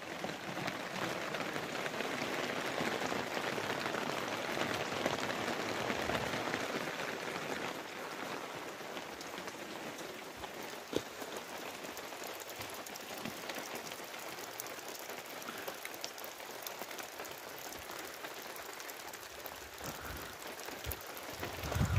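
Steady rain falling and pattering on surfaces, heavier during the first several seconds. A single sharp tap about eleven seconds in.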